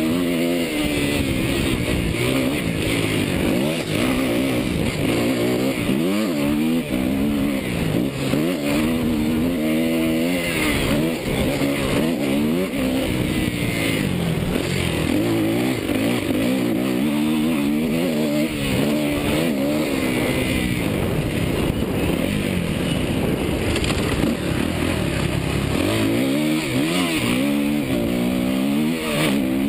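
Suzuki motocross bike engine being ridden hard, its pitch climbing and dropping over and over as the throttle is opened and closed and the gears change.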